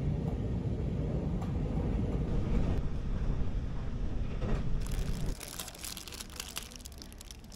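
Steady low rumble of a bus ride, which stops abruptly about five seconds in. Dense crisp crackling and rustling sets in just before the cut and runs on until near the end.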